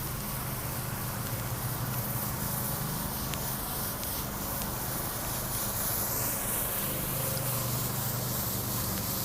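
Steady street noise: the low hum of a vehicle engine under a constant hiss.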